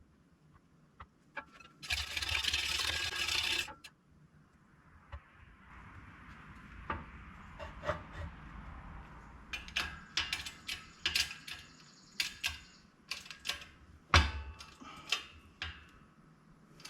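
Rushing noise for about a second and a half, then a run of sharp clicks and knocks with one louder knock near the end, from a seal being set into a hydraulic cylinder part at a shop press.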